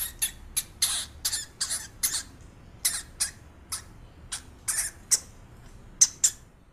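Meerkats giving short, high-pitched squeaks and chirps in a quick, irregular string, about two or three a second.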